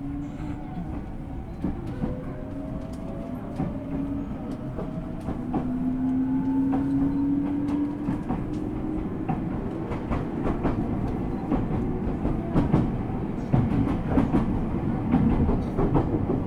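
Ueda Electric Railway 1000 series electric train heard from inside the car, accelerating: the whine of its Toyo GTO-VVVF inverter rises in pitch. Wheels click over rail joints more and more often in the second half as it gains speed.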